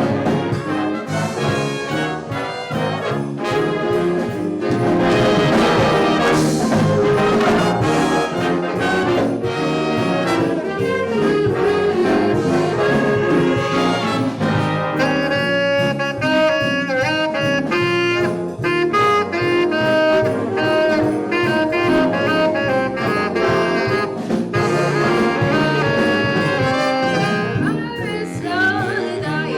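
A school band playing music led by a brass section of trumpets and trombones, in a jazz style.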